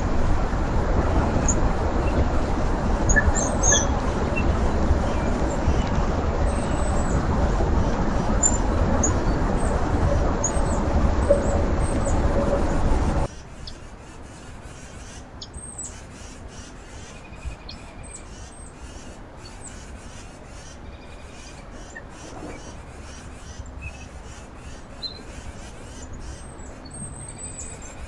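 Small birds chirping with short, high calls, over a loud, steady rushing noise like passing traffic or wind. The noise cuts off abruptly about halfway through, leaving the chirps over a much quieter background.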